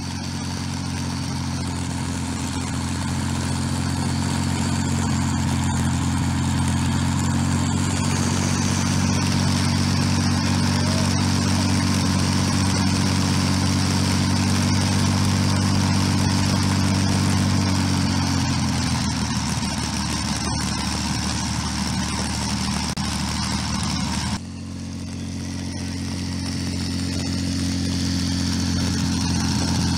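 De Havilland Mosquito's Packard Merlin 225 V12 aero engine running on a ground test run, a steady loud note. About 18 seconds in the note drops and turns rougher. There is an abrupt break about 24 seconds in, after which it runs steadily again.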